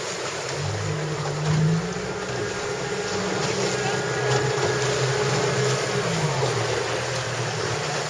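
Motorboat engine running steadily, its hum shifting slightly in pitch, under wind and water noise on the microphone.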